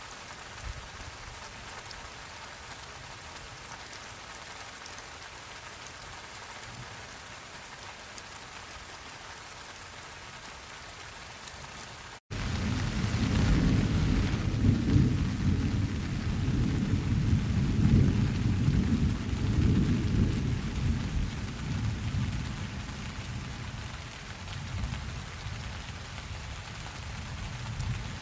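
Steady rain falling. About twelve seconds in, after a split-second break, a long low rumble of thunder rolls in and fades away over about ten seconds while the rain keeps falling.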